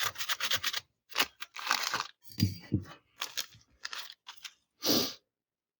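Scraping and rubbing on a ride-on mower engine part during teardown: a fast run of short strokes, then several separate scrapes and rustles. It is the sound of the torn old gasket's remains being worked off the mating surface.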